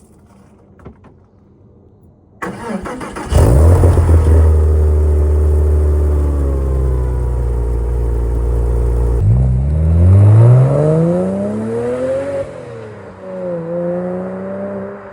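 Porsche Boxster S 986 flat-six exhaust through a Gravity Performance rear silencer: the starter cranks briefly about two and a half seconds in, the engine catches loudly, and it settles into a steady fast idle. Later the revs rise over about three seconds, fall, and rise again more quietly.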